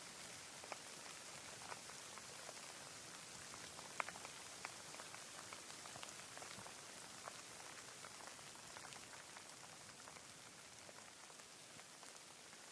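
Rain falling: a soft, steady hiss with scattered single drops striking close by, one sharper drop about four seconds in.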